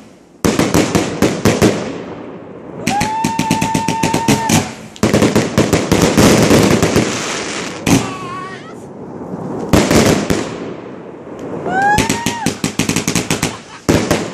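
A multi-shot firework cake firing in rapid volleys of sharp shots and a dense crackle. Twice, about three seconds in and again about twelve seconds in, a whistle rises in pitch and then holds.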